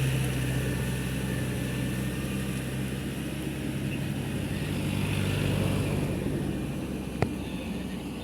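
An engine running steadily at a low pitch, fading somewhat in the last couple of seconds, with a single sharp click about seven seconds in.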